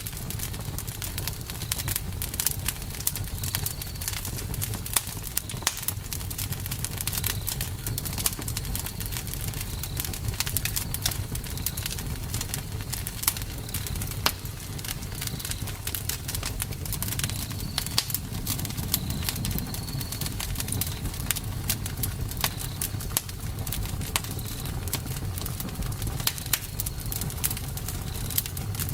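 Campfire crackling, with frequent sharp pops and snaps of burning wood over a low rumble of flames. Short high chirps, most likely birds, come and go throughout.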